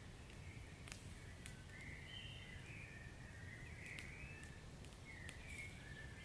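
Wood fire burning in a fireplace: a few sharp crackles and pops over a low, steady rumble, with faint wavering high whistles in between.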